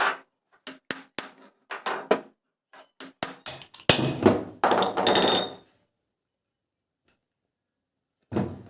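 Hammer tapping on a ceiling fan's metal body to knock the stator coil loose: a quick run of sharp taps over the first few seconds, then a longer clattering stretch around four to five and a half seconds in.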